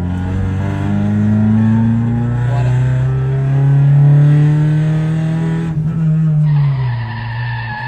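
Race car engine running under load on the track, its pitch climbing slowly and then falling away about six seconds in.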